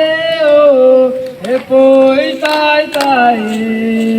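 A single voice singing a slow melody, holding long notes that slide from one pitch to the next.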